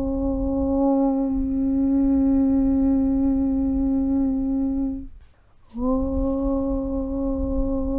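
A long, steady "Om" chant hummed on a single low note. It breaks off briefly about five seconds in, as for a breath, and resumes with a short upward slide into the same pitch.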